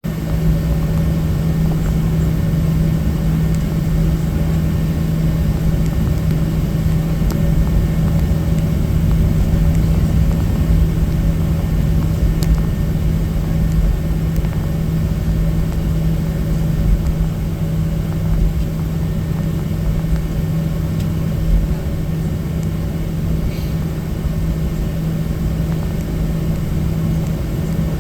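Cabin noise inside a Boeing 737-800 with CFM56-7 engines: a steady low rumble with a strong constant hum, holding level without rising.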